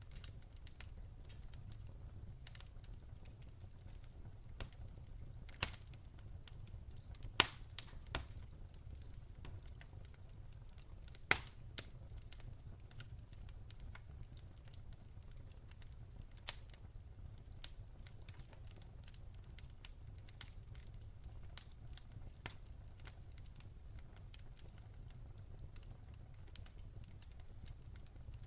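Wood campfire crackling: irregular sharp pops and snaps over a low steady rumble, with a few louder pops in the first half.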